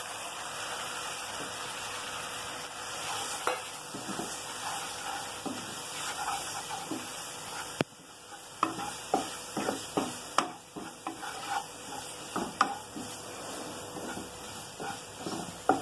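Ground masala powder sizzling as it fries in a non-stick kadai, stirred with a wooden spatula. From about halfway, a run of short scrapes and taps as the spatula works the masala against the pan.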